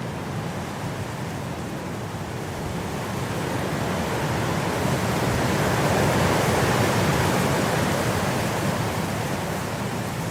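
Blizzard wind blowing, a steady rushing that swells into a stronger gust about halfway through and eases off toward the end.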